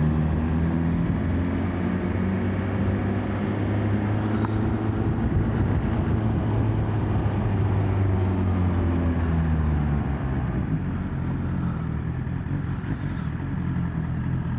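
2021 BMW S1000XR's inline-four engine running while riding, its pitch gently rising and falling with the throttle, over steady wind and road noise.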